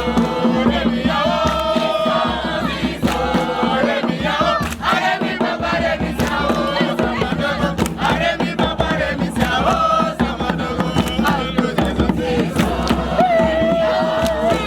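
A crowd singing a chant together in unison, with sharp percussive strokes keeping the beat throughout.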